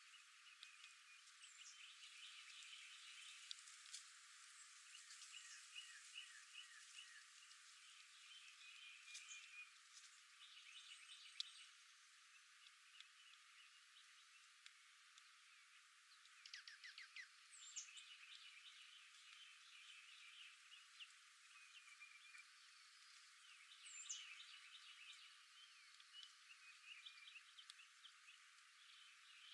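Faint outdoor chorus of small wild animals calling: overlapping short chirps, rapid trills and quick runs of repeated notes, with a few high down-slurred whistles.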